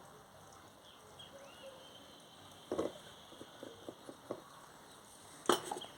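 A few light knocks and clicks from handling the parts of an electric gate opener's motor and gearbox during greasing, the sharpest near the end.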